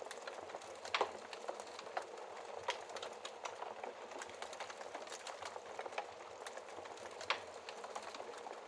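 Wood fire crackling, a dense run of small ticks and snaps with a few louder pops, the sharpest about a second in and another near the end.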